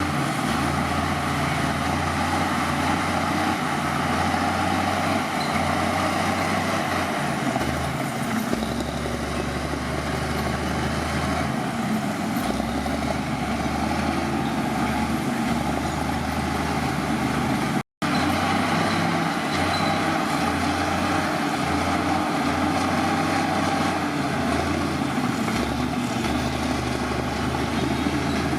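Heavy diesel earth-moving machinery running steadily, with the engine's low hum rising and falling slightly. About 18 seconds in, the sound breaks off for a split second.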